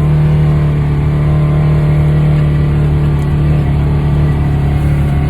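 Polaris Ranger UTV engine held at steady high revs under load as it drives up a snow-covered hill.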